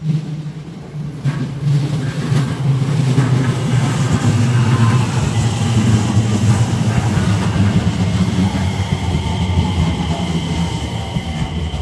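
JR West 227 series electric multiple unit, two sets coupled, running past close by: a loud rumble of wheels on the rails, with a steady whine over it in the second half, dying away near the end.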